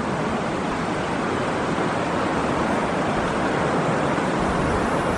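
Steady hiss of rain falling, even and unbroken throughout.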